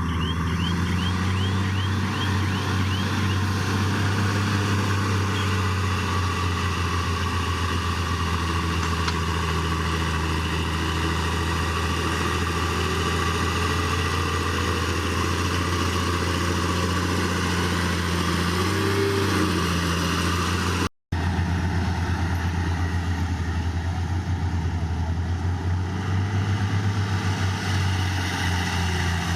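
Heavy diesel earthmoving machinery running steadily under load, with a deep continuous engine drone. A string of short, high, rising chirps sounds in the first few seconds, and the sound cuts out for an instant about two-thirds of the way through.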